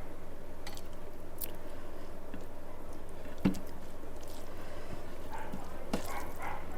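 Close-up eating sounds: chewing and squishing of a mouthful of rice and fish curry, with scattered small clicks and one sharp click about halfway through.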